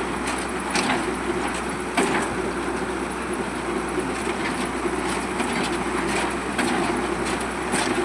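Heavy construction machinery running steadily during a pile-foundation concrete pour, with occasional short knocks.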